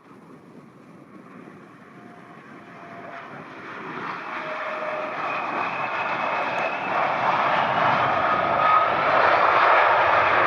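Airliner's engines growing steadily louder as the plane approaches, a rushing roar with a faint whine in it, loudest at the end.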